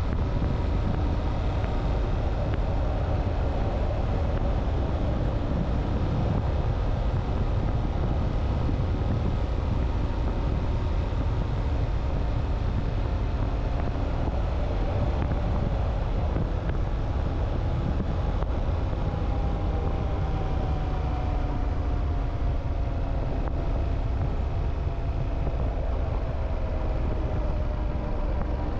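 Motorcycle running on the road, with heavy wind rush and buffeting on the helmet or bike microphone. The engine note sinks slowly over the second half.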